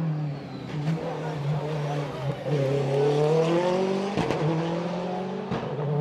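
Race car engine at full throttle, climbing in pitch and dropping back at each upshift several times, with sharp cracks at a few of the shifts.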